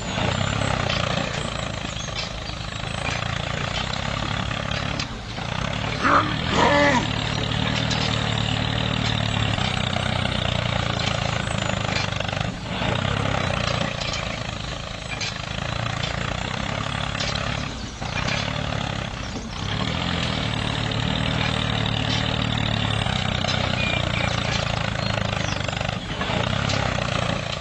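Small electric motor of a DIY mini tractor running steadily, with a brief squeal about six seconds in.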